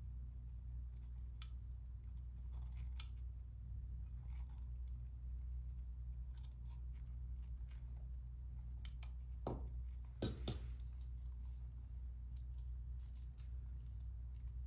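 Faint scraping and small clicks of a tool working the front decorative trim ring off a Sony SELP1650 lens, its double-sided tape softened with IPA, with two louder scratchy strokes a little past halfway, over a steady low hum.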